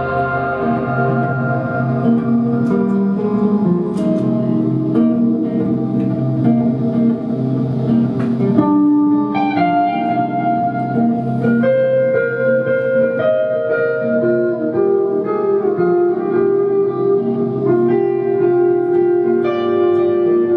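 Live indie band playing an instrumental passage led by guitar, with held notes and chords changing every second or two and no singing.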